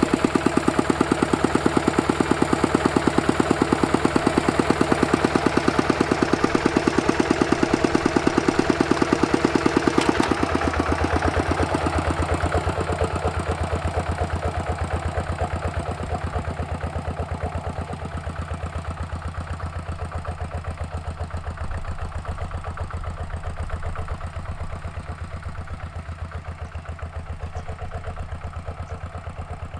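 Walking tractor's single-cylinder diesel engine running steadily with an even pulse while plowing. About ten seconds in, its note shifts lower and then slowly fades.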